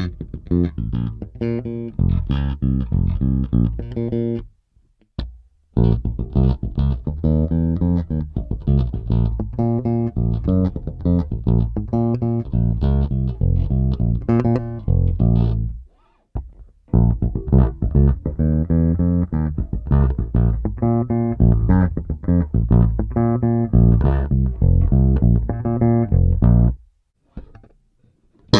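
Five-string Music Man StingRay 5HH-style electric bass played fingerstyle, recorded direct with flat EQ and no compression. The plucked notes come in three phrases, each cut off by a short silence of about a second: a few seconds in, midway, and near the end.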